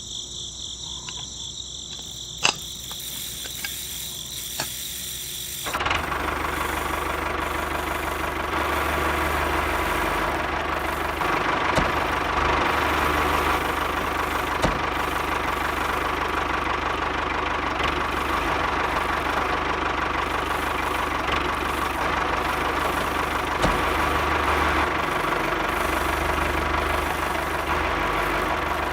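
Mini tractor engine running steadily. It comes in suddenly about six seconds in, after a quieter stretch of high, steady tones.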